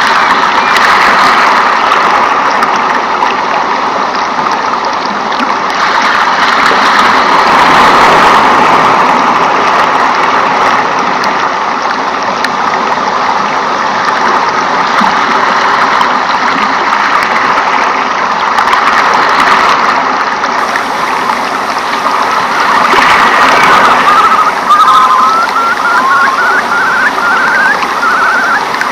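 Steady rushing water of a rainforest ambience, an even, loud wash. Near the end, a short run of quick, high chirps rises over it.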